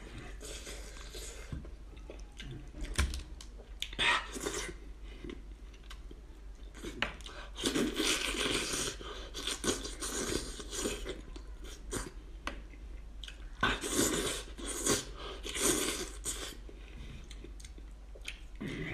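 A man chewing mouthfuls of meat that he bites and tears from a cooked lamb's head. The chewing comes in irregular bouts with sharp bites, louder about halfway through and again near three-quarters of the way.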